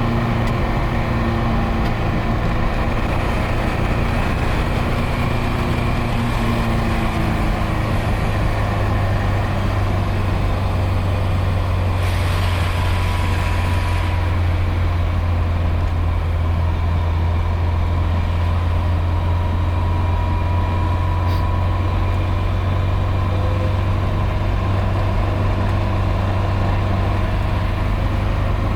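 Nissan 240SX engine running steadily at low revs, a loud droning note from an exhaust with a hole blown in it; the pitch steps slightly lower about eight seconds in. A brief hiss rises about twelve seconds in and fades two seconds later.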